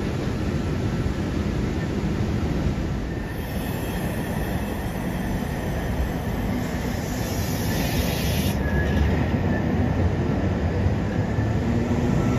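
Sydney Trains double-deck electric trains: a steady rumble of train running and wheel noise. A hiss comes in after about three seconds and cuts off suddenly a few seconds later, and a rising whine starts near the end as a train comes in.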